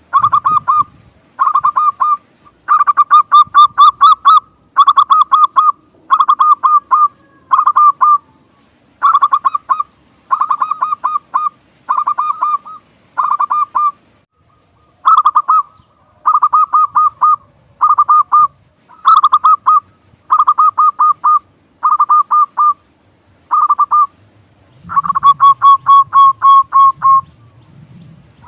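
Zebra dove (perkutut) cooing: short phrases of quick, staccato pulsed notes repeated about once a second, with one longer run of notes near the end.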